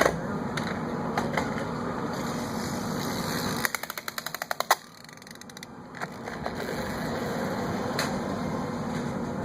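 Pull-back toy car's spring motor clicking in a rapid, even run for about a second, a little past halfway through.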